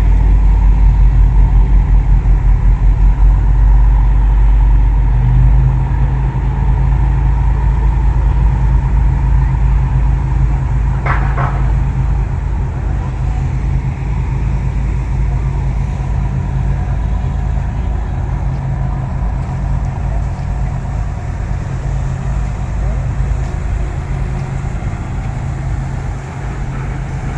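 A heavy engine running with a steady low rumble that pulses for the first few seconds and then settles into an even drone. A brief higher tone sounds about eleven seconds in.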